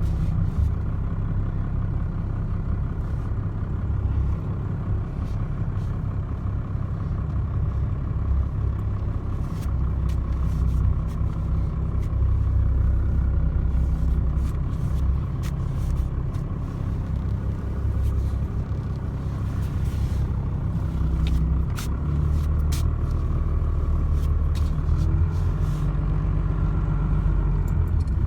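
Dodge pickup truck's engine running steadily, heard from inside the cab as a low rumble, with faint light clicks and rattles here and there.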